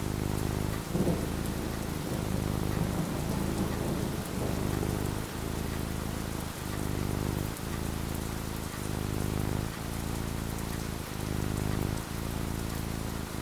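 Steady rain falling, with a low rumble of thunder swelling about a second in.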